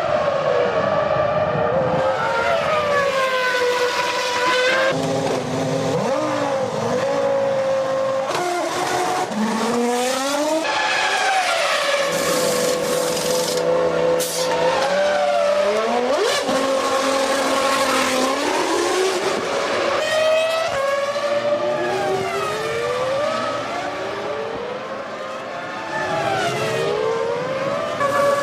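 2001 Formula One cars' 3-litre V10 engines at high revs, the pitch climbing through upshifts and falling on downshifts and as cars pass. Several cars are heard one after another, with abrupt changes in the sound every few seconds.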